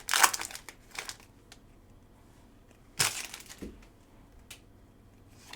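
A trading-card pack wrapper crinkling and tearing as it is opened and the cards are handled, in short noisy bursts at the start, about a second in, and a louder one about three seconds in.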